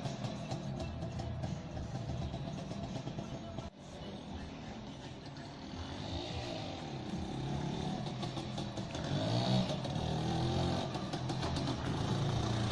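IZh Planeta 4 motorcycle's two-stroke engine running, its revs rising and falling several times, with a brief break about four seconds in.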